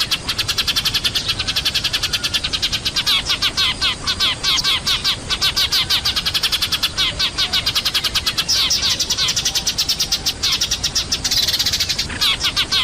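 Noisy flock of Eurasian tree sparrows chirping, many calls a second overlapping without a break, played as a lure call to draw sparrows down.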